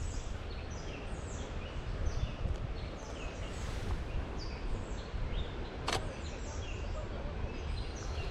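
Several birds singing and calling at once: many short chirps and slurred notes overlapping. A steady low rumble lies underneath, and there is one sharp click about six seconds in.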